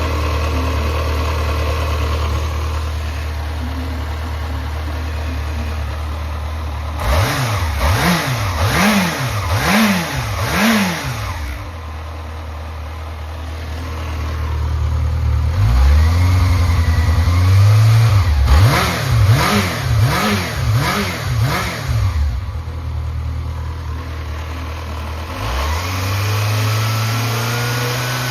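Yamaha XJR400 air-cooled inline-four engine idling, then revved: a run of quick throttle blips about seven seconds in, a held rev, a second run of quick blips, and a longer held rev near the end. It runs without abnormal noise, as the seller describes it.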